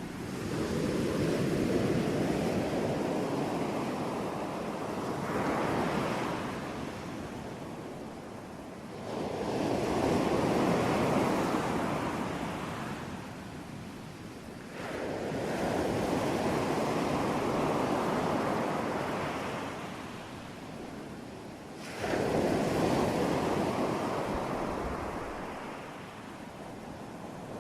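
Ocean surf: waves breaking and washing in, in slow surges that swell and fade about every five or six seconds.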